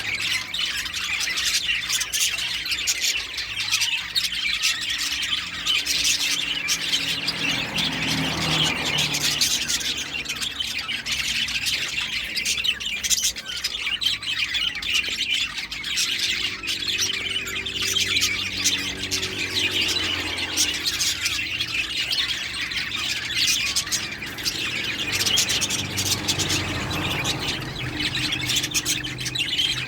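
Female lovebird chattering and squawking without pause, a rapid stream of shrill calls.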